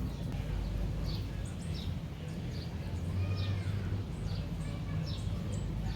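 Budgerigars chirping: a string of short, high chirps that fall in pitch, about two a second and irregularly spaced, over a steady low hum.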